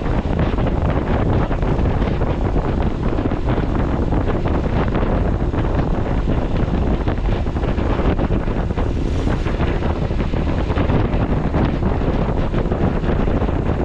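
Heavy wind buffeting the microphone on a moving motorcycle: a steady, loud rush with vehicle and road noise underneath.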